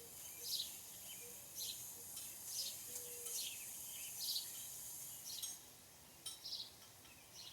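Small birds chirping: a run of short, high chirps, each sliding downward, coming about once a second.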